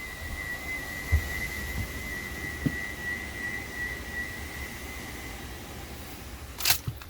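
A steady high-pitched whistle-like tone that fades out about six seconds in, over a low hum, with a couple of dull thumps and a sharp clack near the end.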